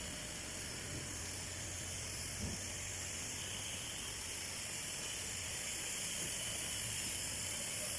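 5-axis CNC router machining foam: a steady hiss from the spindle and cutter, with a small knock about two and a half seconds in.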